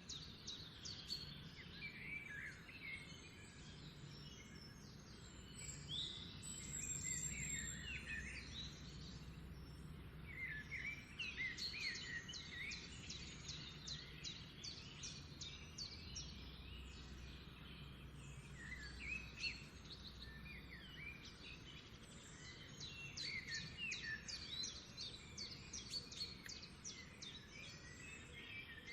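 Several small songbirds singing and chirping together, with quick trills and short rising and falling notes overlapping throughout, over a faint low steady hum.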